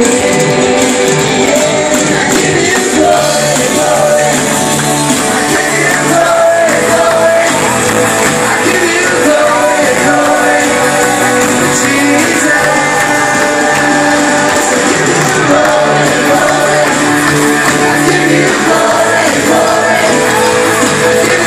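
Church worship band playing live, with voices singing over the instruments, recorded on a phone in a large hall.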